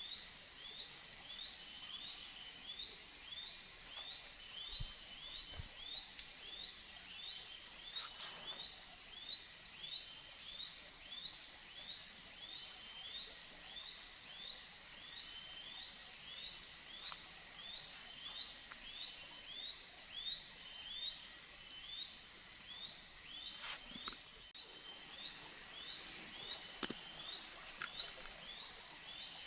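Tropical forest ambience: a short rising call repeated about twice a second, over a steady high insect drone.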